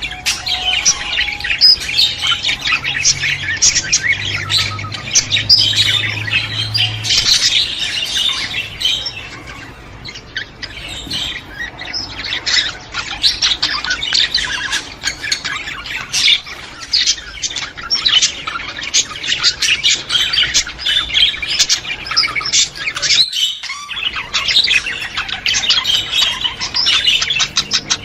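A flock of budgerigars chattering, with dense, rapid chirps and squawks that thin briefly about ten seconds in.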